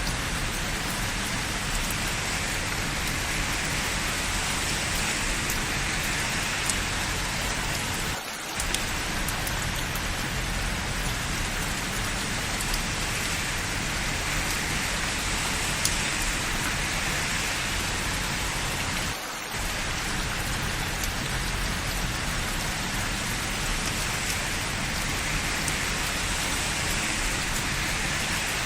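Steady rain falling, an even hiss with scattered faint drop ticks. The sound dips briefly twice, about eight and nineteen seconds in.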